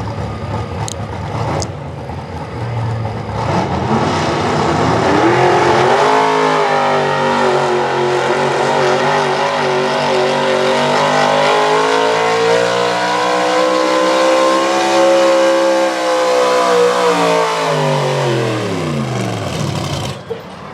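4x4 pulling truck's engine at full throttle hauling the sled down the track. Rough at first, it climbs in pitch a few seconds in and holds high revs with a slight waver. Near the end the pitch falls steeply as the truck comes to a stop.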